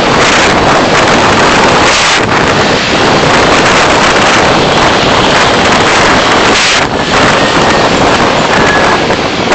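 Loud, steady road and wind noise from a car dashcam's microphone while driving, a hiss with no distinct engine note.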